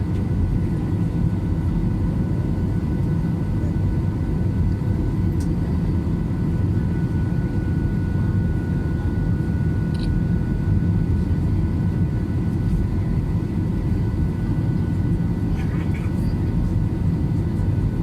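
Airplane engine noise: a steady low rumble that holds at the same level throughout, with faint steady tones above it.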